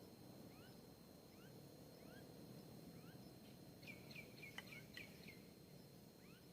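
Faint bird calls: a short rising chirp repeated about every three quarters of a second, with a brief flurry of sharper chirps in the middle.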